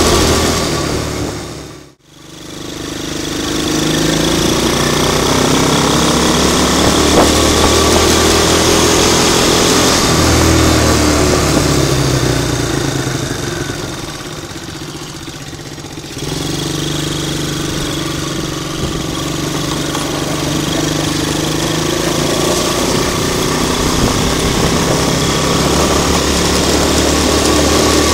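Hammer HT125 quad bike's 125 cc engine running under way, its pitch rising and falling with the throttle. The sound dips out briefly about two seconds in and jumps back abruptly about sixteen seconds in.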